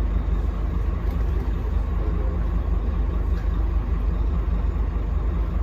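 Scania K310UB bus's diesel engine and running gear giving a steady low rumble while under way.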